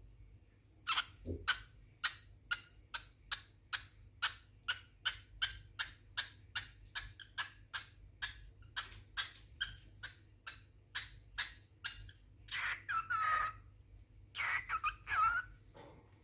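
Cockatiel giving a rapid run of short, sharp chirps, about three a second, then two longer calls with a falling whistled note near the end.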